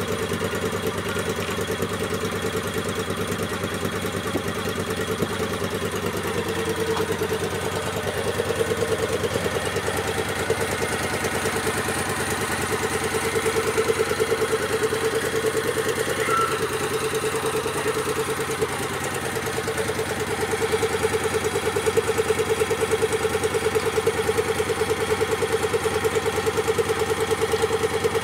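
Moto Guzzi V7 Classic's air-cooled transverse V-twin running steadily near idle through its exhaust, getting somewhat louder a few times, with a brief quieter spell about two-thirds of the way in.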